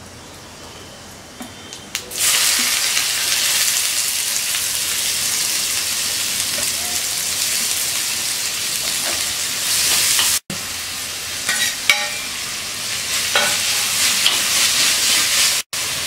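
Chopped onion, curry leaves and garlic sizzling in hot oil in a clay pot. The sizzle starts loud about two seconds in and carries on steadily as a steel spoon stirs the mix, with a few scrapes.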